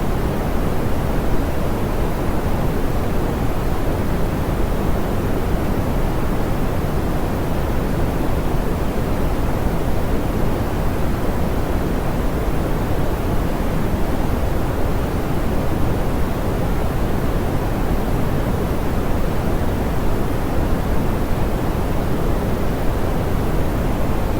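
Steady, soft pink noise: an even, unchanging hiss weighted toward the low end, with no pitch and no events.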